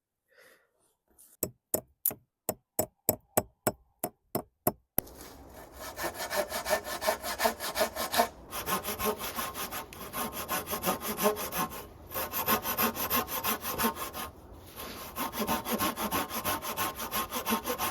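A quick run of about a dozen sharp knocks, then a hand saw cutting a branch for firewood on a wooden sawhorse: steady back-and-forth strokes with brief pauses about three times.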